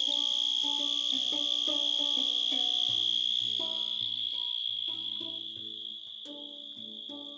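Insects keep up a steady high trill, the loudest sound, with a handpan played beneath it in a run of struck, ringing notes, a few to the second. The trill thins and the overall level drops a little in the second half.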